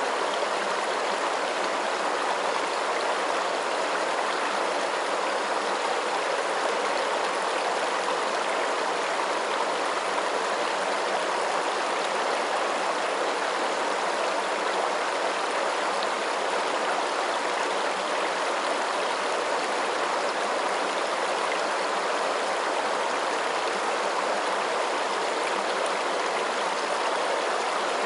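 Flowing water: a steady, even rush with no breaks or changes.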